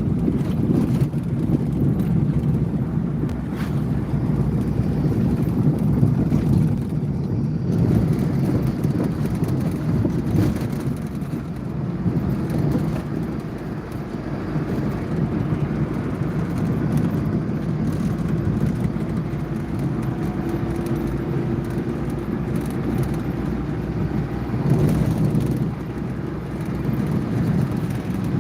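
Car driving, with steady road and engine noise.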